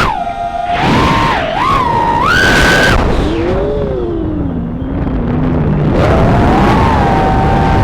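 3-inch FPV quadcopter's brushless motors and propellers whining, the pitch swooping up and down with the throttle. About three seconds in it drops low as the throttle comes back, then climbs again near six seconds and holds.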